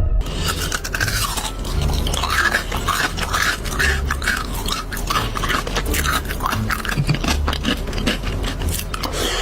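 Close-miked eating: wet crunching and chewing, with many quick crackles.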